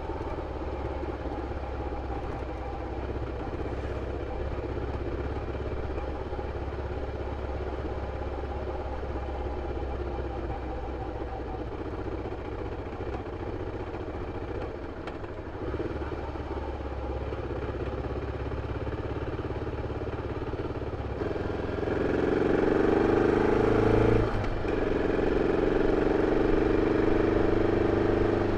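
BMW F 650 CS motorcycle's single-cylinder engine running through its original stock exhaust. It holds steady for most of the stretch, then gets louder about 21 seconds in, with a brief dip in pitch about 24 seconds in before it holds at the higher level.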